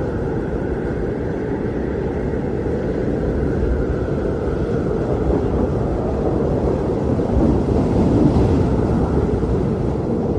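Blizzard wind blowing in a steady low rumble, swelling briefly in a stronger gust near the end.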